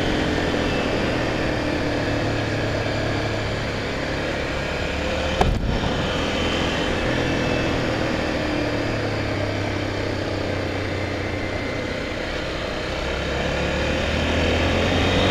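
Honda XR 250 Tornado's single-cylinder four-stroke engine running steadily while riding, its pitch rising and falling gently, with road and wind noise. One brief sharp knock about five and a half seconds in.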